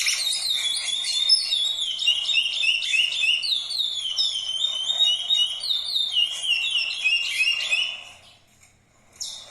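A songbird singing a long, fast run of short, sliding whistled notes, several a second. The song stops about eight seconds in, and a short new burst starts near the end.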